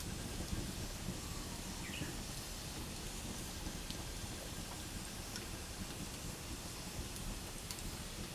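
Wood campfire burning: a steady hiss with a few sharp crackles, one about four seconds in and two more near the end.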